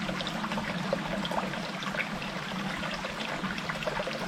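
Small forest stream trickling steadily.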